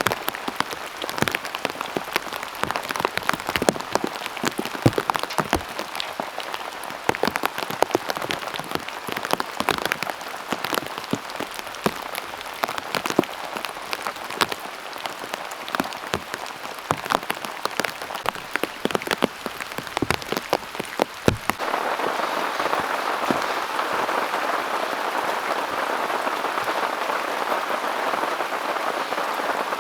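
Heavy rain with many separate drops striking close by in sharp ticks. About two-thirds of the way through, it changes suddenly to a steady, dense hiss of downpour.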